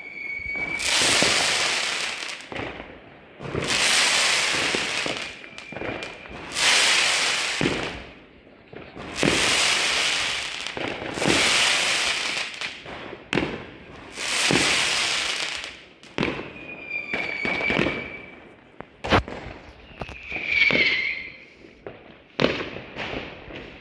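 Fireworks going off: a run of crackling bursts, each lasting a second or two, one after another, with a few sharp single bangs and several short whistles in between.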